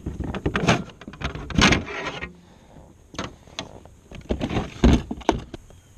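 Irregular knocks, clicks and rattles of gear being handled aboard a kayak, with a brief rustling scrape about two seconds in and the loudest knock near the end.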